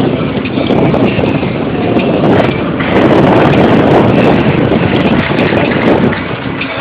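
Wind rushing over a phone's microphone during a bike ride downhill, loud and buffeting, growing stronger about halfway through.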